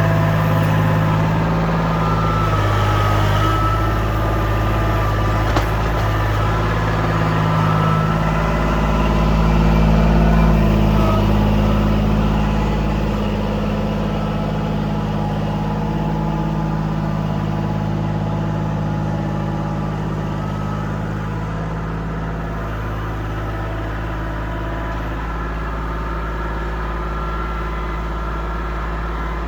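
Kubota L2501 compact tractor's three-cylinder diesel engine running steadily, swelling louder around ten seconds in as it works under load, then settling back to a steady run.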